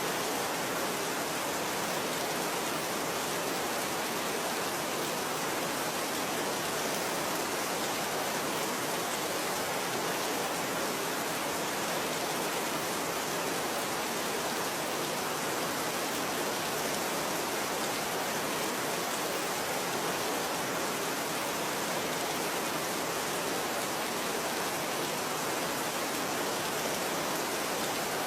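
Steady rain falling, an even unbroken patter without distinct drops or thunder.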